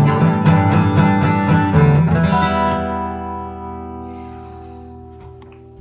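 Acoustic guitar strumming, ending about two seconds in on a final chord that rings out and slowly fades.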